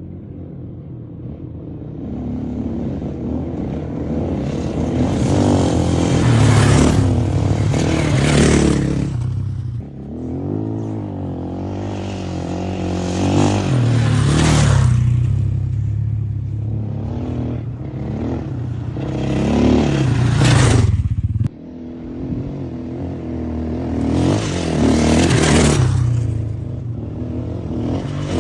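Motocross motorcycle engine being ridden, repeatedly accelerating and easing off, with a loud rush of noise at about four peaks of acceleration. The sound breaks off sharply about three-quarters of the way through and then builds again.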